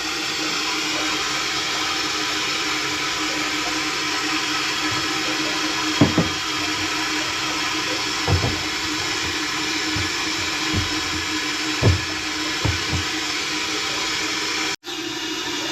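Water rushing steadily through the supply plumbing after the motorized ball valve has opened back up, a steady hiss with a low hum under it. A few soft low knocks come through the flow.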